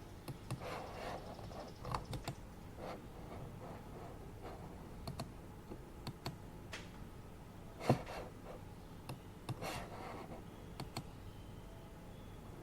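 Computer keyboard keys clicking in scattered, irregular keystrokes rather than fast continuous typing, with a couple of brief paper-like rustles. Underneath is the steady low hum of an office air purifier.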